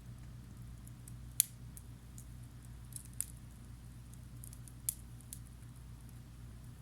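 Wood campfire crackling: a few sharp pops and snaps, the loudest about a second and a half in, over a low steady hum.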